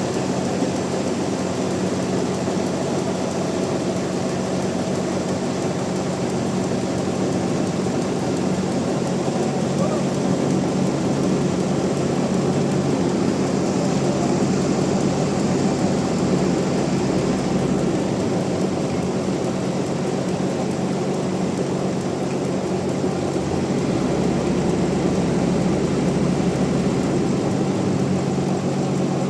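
Bandsaw mill running with a steady, even machine hum.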